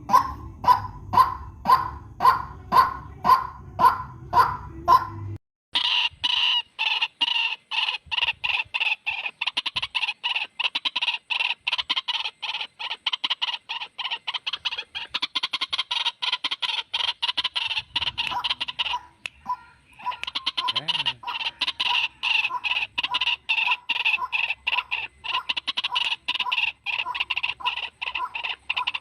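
White-breasted waterhen calls from a bird-lure recording: repeated croaking notes in a steady rhythm. For the first five seconds they come about two a second over a low hum. Then the track cuts to a faster, continuous series, broken once by a short pause.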